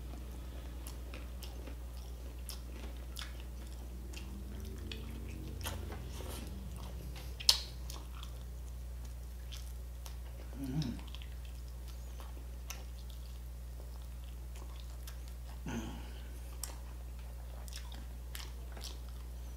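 Close-miked chewing and mouth clicks of a person eating roast chicken by hand, with one sharp loud click about seven and a half seconds in. Two brief hums of the voice come around eleven and sixteen seconds.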